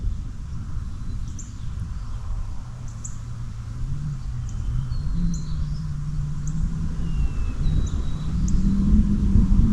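Wind buffeting the microphone with a low rumble that grows stronger toward the end. Small birds chirp repeatedly in the background, with a faint steady low hum underneath.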